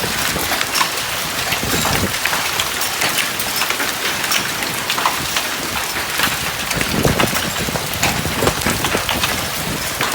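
Heavy storm rain pouring down hard, a dense steady patter broken by many sharp individual strikes on hard surfaces.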